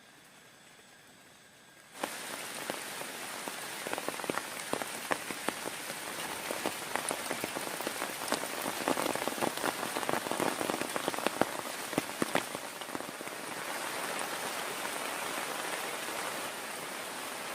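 Heavy rain falling, with many distinct drops striking a surface close to the microphone over a steady hiss. It starts abruptly about two seconds in after a quiet moment, and the rain is heaviest past the middle.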